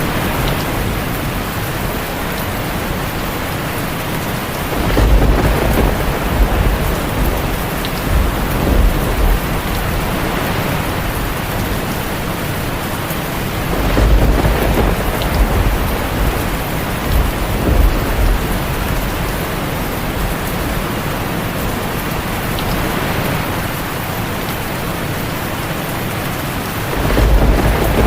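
Heavy rain falling steadily on a tin roof, with thunder rumbling three times: about five seconds in, around the middle, and again near the end.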